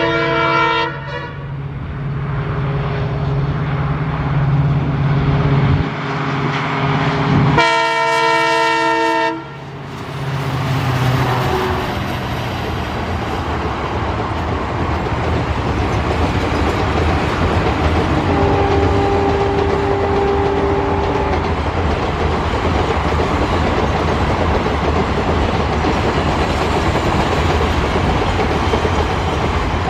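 Diesel locomotive horn sounding over the engine's steady low hum: a blast ending about a second in, then a longer, louder blast about eight seconds in. The train then rolls past with a steady rumble and the wheels clattering over the rail joints, and a fainter horn sounds briefly midway.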